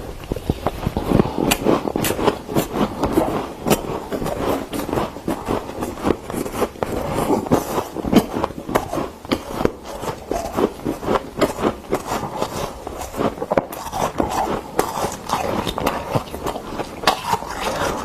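Freezer frost crunching: a dense, irregular run of quick, crisp crunches and crackles, with no pause.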